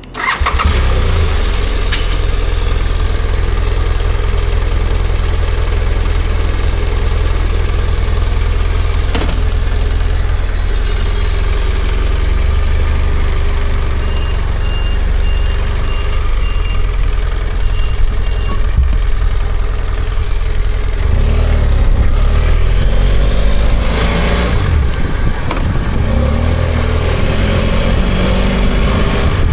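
BMW F800GS motorcycle's 798 cc parallel-twin engine idling steadily, then pulling away about two-thirds of the way in, revving up and shifting through the gears. A series of short high beeps repeats for a few seconds in the middle.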